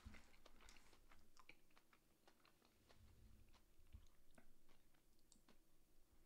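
Faint chewing: scattered soft mouth clicks and smacks, with no other sound above near silence.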